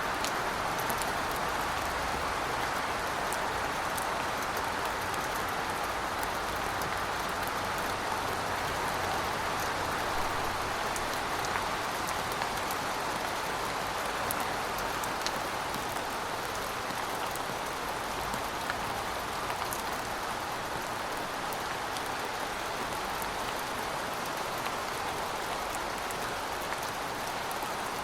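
Steady rain falling: a dense, even hiss of rain with scattered sharper drop ticks.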